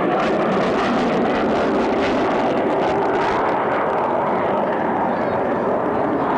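Aircraft in flight: a loud, steady rush of engine noise that holds without let-up.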